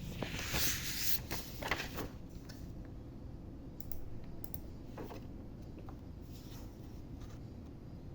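Soft rustling for about a second, then a scattering of small clicks and taps.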